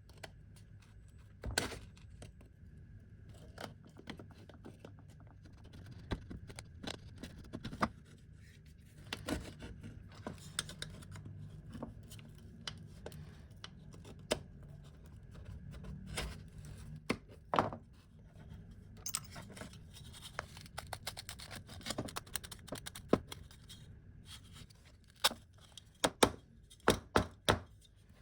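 Hand work on a vintage hand-cranked coffee grinder: irregular clicks, knocks and scraping of tools and small metal and wooden parts, with a quick run of sharp knocks near the end.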